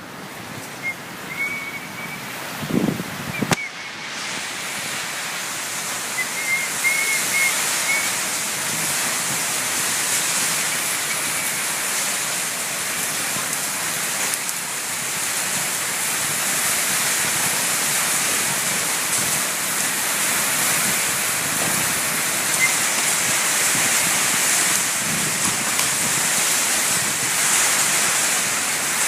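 Heavy rain falling steadily with an even hiss, growing louder over the first few seconds and then holding.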